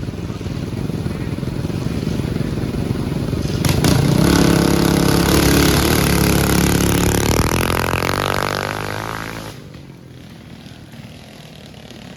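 Racing mini bike engines running at the line, then launching about four seconds in: a loud run with the engine pitch climbing through the gears, which drops away suddenly near ten seconds.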